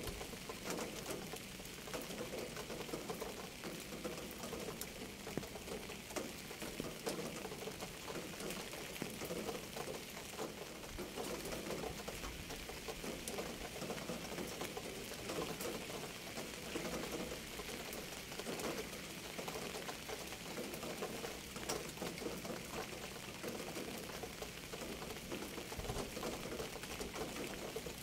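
Steady rain: many close drops ticking over an even hiss.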